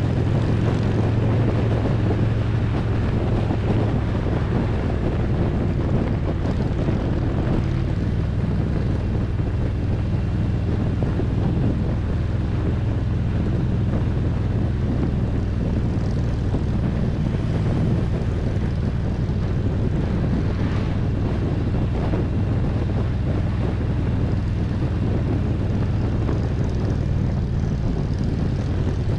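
Harley-Davidson Road Glide's V-twin engine running steadily at cruising speed, heard from the rider's seat, with wind rushing over the microphone.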